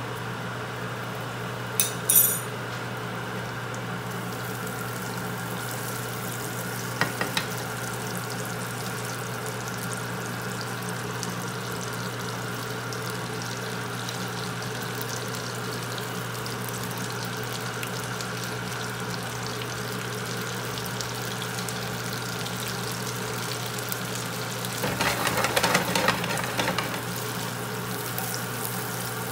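Butter sizzling steadily in a grill pan with snow peas frying in it, over a steady low hum. There are a couple of sharp clicks about two seconds in, and a louder burst of sizzling and rattling a few seconds before the end as the pan is tossed.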